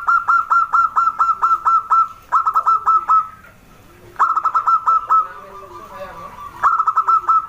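Zebra dove (perkutut) singing: four bursts of fast staccato notes with short pauses between them, and a softer, lower coo in the gaps.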